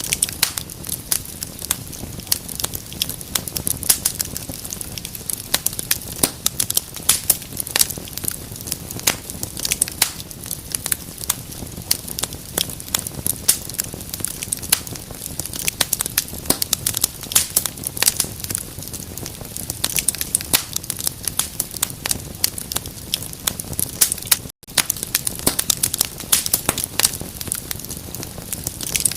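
Fire crackling in a fireplace: a steady soft hiss under a dense, irregular run of sharp snaps and pops. The sound cuts out for a split second about five seconds before the end.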